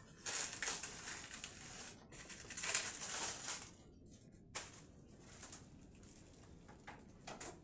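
Packaging being handled: irregular bursts of rustling and crinkling, busiest in the first half and then fewer and fainter.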